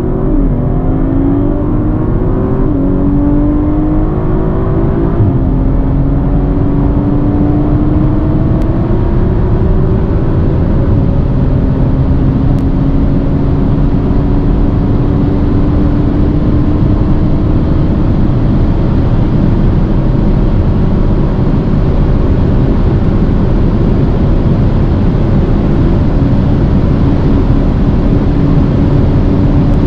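A performance car accelerating hard at full throttle. The engine's pitch rises and drops back with quick upshifts through the first several seconds, then climbs slowly and steadily in the high gears over heavy wind and road noise.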